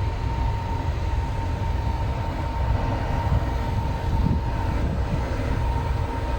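Rooftop air handling unit running: a steady low rumble and rush of air with a constant tone held throughout.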